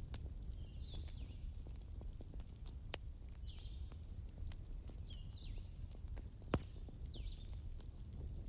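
Wood fire in a fireplace crackling over a low steady rumble, with two sharp pops from the burning logs, one about three seconds in and one near six and a half seconds. A short high chirp repeats about every second and a half to two seconds.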